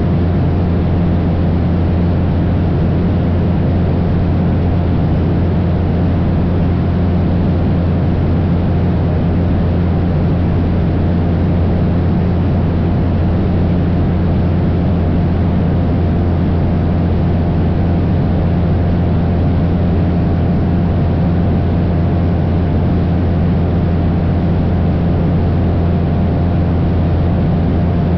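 Cessna 172 single-engine propeller plane droning steadily in cruise: a strong low engine and propeller hum with a few fixed tones above it, holding the same pitch and loudness throughout.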